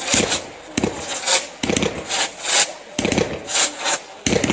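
Fireworks battery firing shot after shot, about two a second, each launch a sharp report with a short hissing rush as the shells climb and burst.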